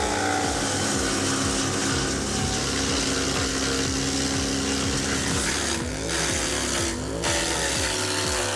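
Wood chipper running and chipping branches, with a steady engine hum under a hiss of chipping. About two-thirds of the way through, the engine pitch sags twice and then recovers as it takes a load of wood.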